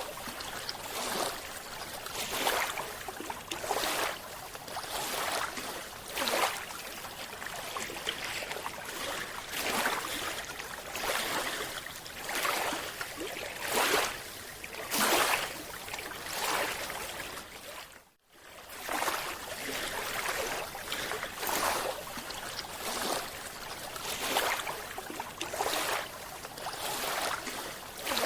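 Underwater water noise: a rushing hiss that surges in bursts every second or so, briefly cutting out about eighteen seconds in.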